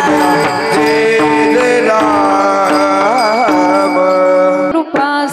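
Devotional kirtan music: a sung melody with wavering ornaments over steady held accompanying notes and light hand-drum strokes. The music breaks off briefly near the end, then resumes.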